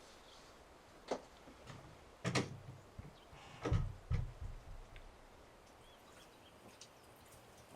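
A few scattered knocks and low thumps, with the loudest cluster about four seconds in.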